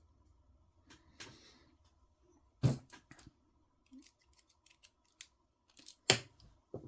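Small tools and metal parts clicking and tapping while a screw is driven into an RC car's steering bell crank, with many light ticks and two louder knocks, one about a third of the way in and one near the end.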